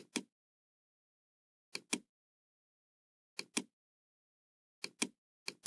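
Computer mouse clicks in quick pairs, the button's press and release, about five pairs spaced a second or so apart, with dead silence between.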